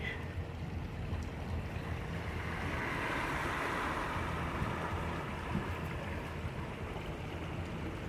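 Steady low rumble of a car driving, heard from inside the cabin, with a swell of hiss from about two and a half to five seconds in.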